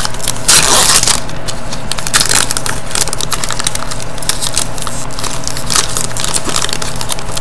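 Trading-card pack being torn open, the wrapper crinkling and crackling, with a louder rip about half a second in.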